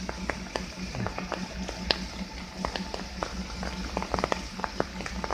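Heavy vehicle engine running steadily with a low, evenly pulsing hum, and irregular sharp clicks and knocks scattered over it.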